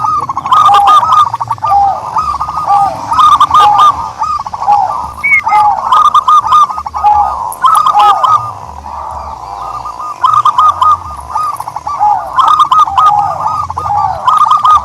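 Turtledoves calling: short arched notes repeat several times a second, with calls overlapping one another. There is a quieter lull a little past the middle.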